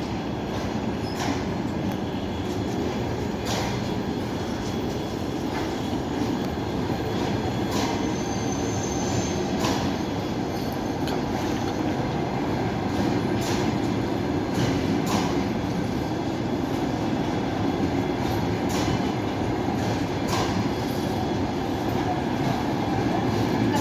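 Passenger train departing, its wheels clicking sharply over rail joints every second or two over a steady rolling rumble. A brief high wheel squeal comes about eight seconds in.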